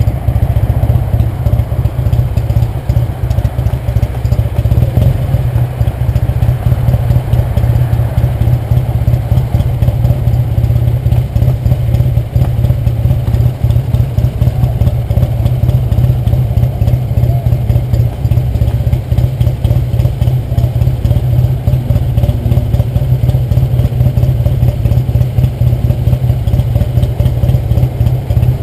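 1966 Triumph TR6R Trophy's 650cc vertical-twin engine idling steadily with a fast, even beat.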